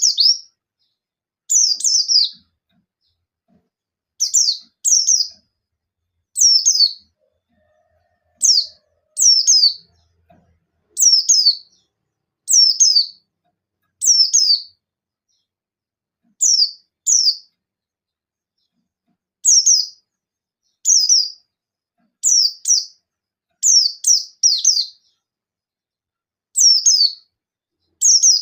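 A buxtoni white-eye (pleci) singing short, high, rapid-fire phrases of sharply falling notes, one burst every one to two seconds with silent gaps between. These are the 'nembak' bursts that keepers play to provoke other white-eyes into answering and singing.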